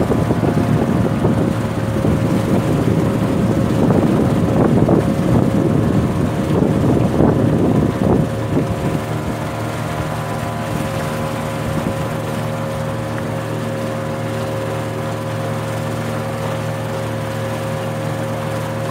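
Boat engine running steadily, a constant drone with a steady hum. For about the first eight seconds a louder rushing noise rides over it, then dies away, leaving the engine alone.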